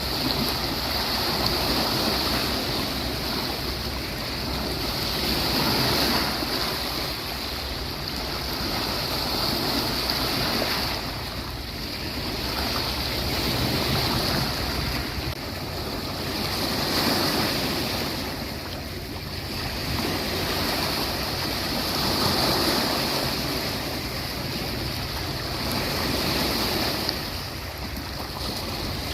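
Sea waves washing onto a beach, a continuous surf wash that swells and eases every four to five seconds.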